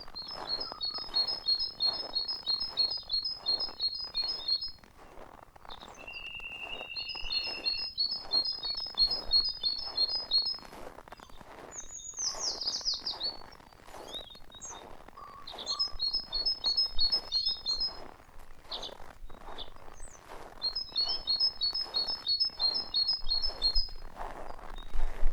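Songbirds singing: a fast trill of paired high notes, repeated in four phrases of about three to four seconds each, with a short steady whistle and a quick falling call between the phrases. An uneven rustling noise runs underneath.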